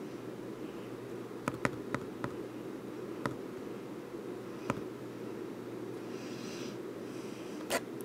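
A steady low buzzing hum with about seven sharp clicks: three in quick succession about a second and a half in, then single clicks near three, five and eight seconds.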